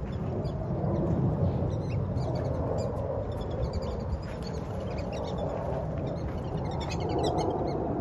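Birds chirping in many short, high calls that bunch together near the end, over a steady low rumble.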